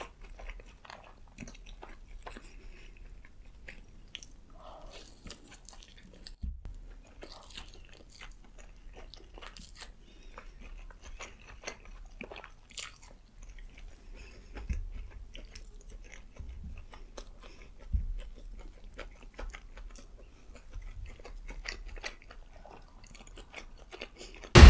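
Close-miked mukbang eating: a person biting and chewing burgers and fries, with scattered wet chewing clicks and small crunches and a few heavier bites.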